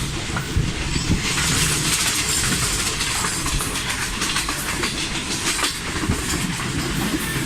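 Passenger train coaches rolling past as the train pulls into the station, wheels clattering over the rail joints in a steady run of clicks, with a hiss from about a second in.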